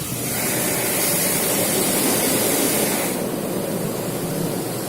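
Automatic car wash's water jets spraying against the car, heard from inside the cabin as a loud rushing hiss that swells in the first second and eases off after about three seconds.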